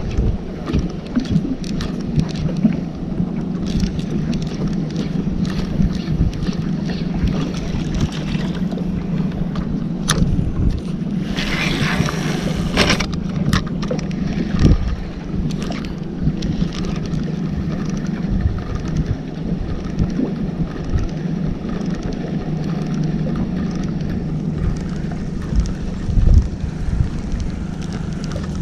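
A boat's motor running steadily, with wind buffeting the microphone and occasional knocks.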